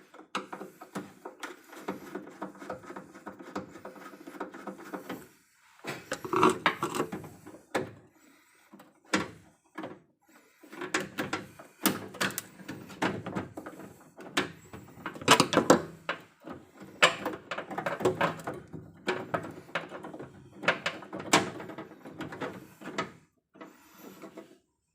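Irregular knocking, rattling and scraping of tools and hardware being handled, in bursts with short pauses, stopping abruptly near the end.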